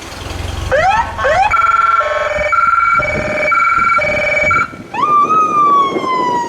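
Emergency vehicle's electronic siren cycling through its modes: two short rising whoops, then a two-tone hi-lo alternating about every half second, then about five seconds in a long wail that slowly falls in pitch. A low engine rumble runs underneath.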